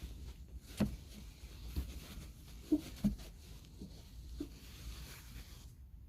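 Steady rain hiss on a car roof, heard from inside the car, with several soft knocks and taps; the rain sound cuts off abruptly near the end.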